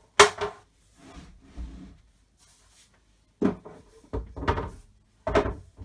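Flat-pack furniture panels and packaging being handled: a sharp knock just after the start, then scraping and rubbing, with more knocks and rubbing in the second half.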